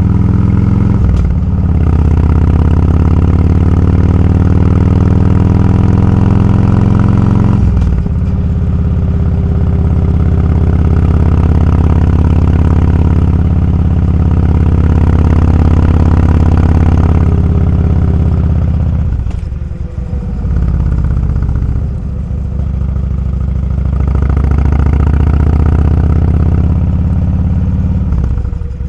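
Motorcycle engine running on the move, pulling through the gears: the engine note drops suddenly with an upshift about a second in and again near eight seconds, climbs steadily in between, then falls back twice as the throttle is eased off before picking up again.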